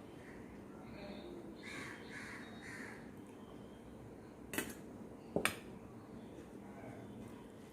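A crow cawing three times in quick succession, faint. Later, two sharp clinks a little under a second apart.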